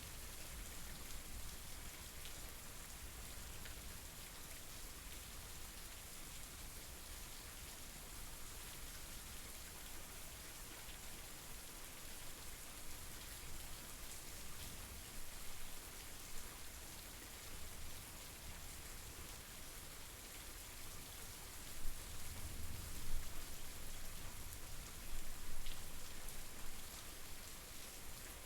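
Steady rain falling, an even hiss of many drops, with a few louder low bumps about three-quarters of the way through.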